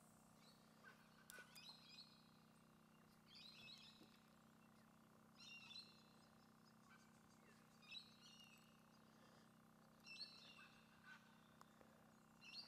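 Faint bird calls: a short phrase of chirping notes repeated every two seconds or so, over a faint steady hum.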